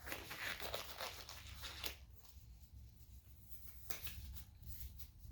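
Rustling and crinkling of gloves being pulled onto the hands, busiest in the first two seconds, with a couple of brief rustles again near the end.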